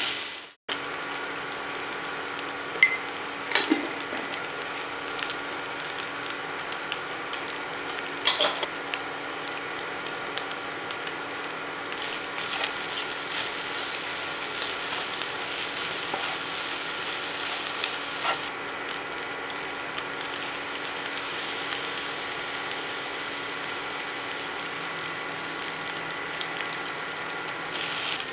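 Flaked mackerel and onion sizzling in oil in a nonstick frying pan, with a wooden spatula stirring and now and then scraping the pan. The sizzle grows louder about twelve seconds in.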